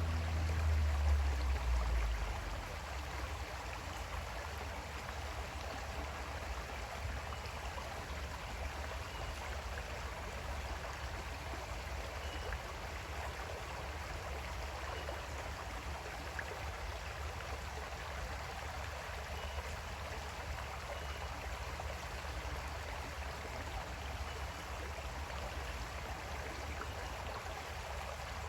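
Creek water flowing steadily, an even rush of running water. A deep low rumble is louder in the first two seconds, then settles under the water sound.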